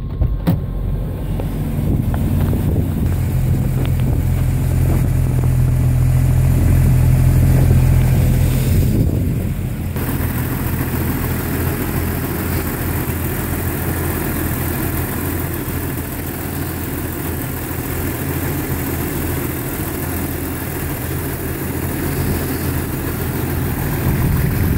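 Jeep Cherokee XJ engine running at a fast idle just after a cold start, heard first from inside the cab; about nine to ten seconds in the sound drops and changes as it is heard from the open engine bay, steady mechanical running with more hiss.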